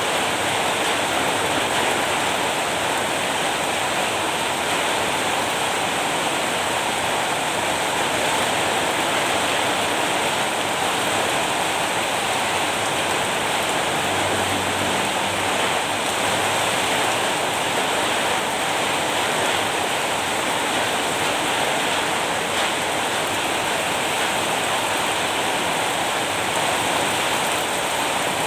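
Steady rain falling, an even hiss of drops on a surface with no breaks or changes.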